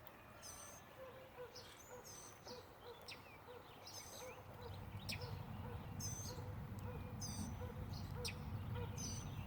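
Birds chirping and calling outdoors with short high chirps and trills every second or so, over an even run of short low notes about twice a second. A low rumble grows in about halfway through.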